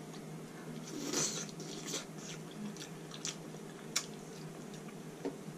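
A person chewing a mouthful of sauced seafood boil close to the microphone: soft wet mouth sounds with scattered sharp clicks and smacks.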